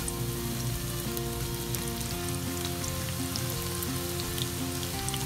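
Chicken skewers wrapped in samosa-sheet strips deep-frying in a pan of hot oil: a steady sizzle of bubbling oil with scattered small crackles.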